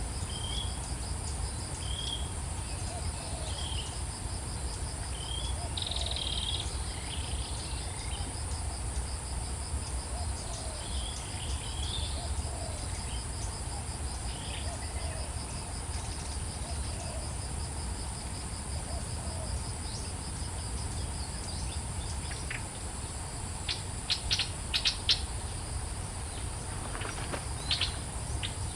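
Insects and crickets chirping steadily, with short bird chirps repeated about once a second during the first half. Near the end come a few sharp clicks, which are the loudest sounds; a low rumble runs underneath throughout.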